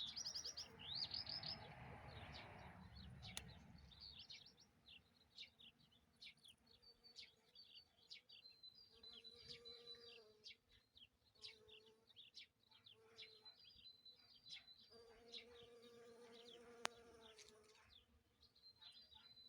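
Faint songbirds chirping and trilling, with a flying insect buzzing past in several short passes and one longer pass of about two seconds. A soft rushing noise sits under the first few seconds.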